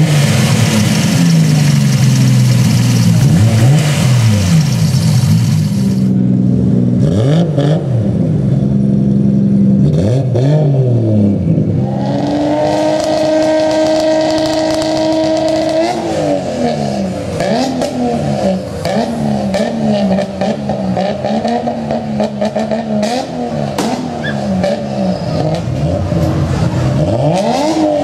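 Modified single-turbo Nissan Skyline straight-six being revved again and again, its pitch sweeping up and falling back with each blip. About halfway through, the revs are held steady for a few seconds before the blipping resumes.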